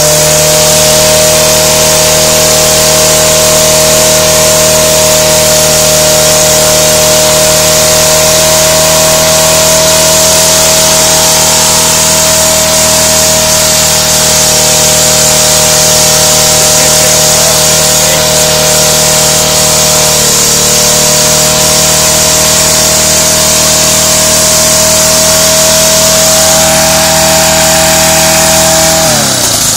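Small lawn mower engine running at a steady high speed after revving up. It sags briefly about two-thirds of the way through, then slows and drops away near the end.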